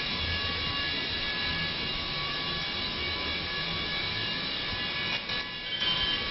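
A 5.9-litre turbo diesel engine in a 2005 Dodge Ram 2500 idling steadily, with a low rumble and a steady high whine. The sound dips and shifts briefly about five seconds in.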